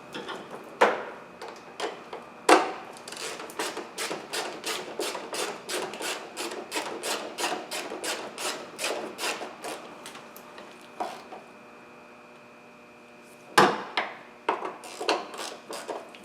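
Ratchet wrench clicking in a steady run of about three clicks a second while tightening 10mm bolts, with a few sharp knocks of tools on metal near the start and another cluster near the end.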